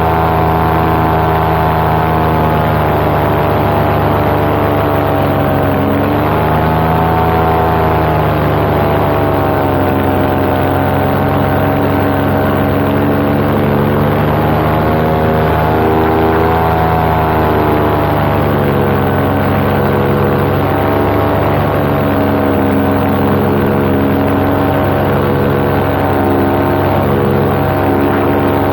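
Paramotor engine and propeller running steadily at flight power, its pitch sagging and swelling twice as the throttle shifts.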